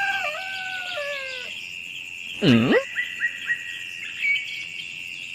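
Animal sounds: a steady high insect-like drone runs throughout, with bird-like chirps that glide down in pitch in the first second and a half. About two and a half seconds in comes one short call that swoops sharply down and back up, followed by a few quick chirps.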